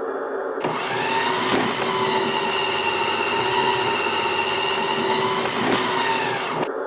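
Garbage truck engine sound, running steadily with a brief wobble in pitch twice, then cutting off near the end.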